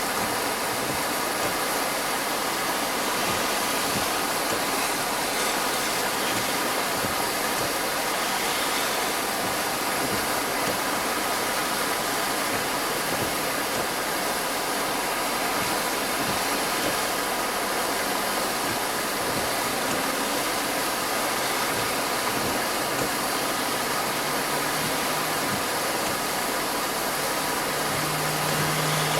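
A car engine running steadily, with a constant even hiss and no change in level.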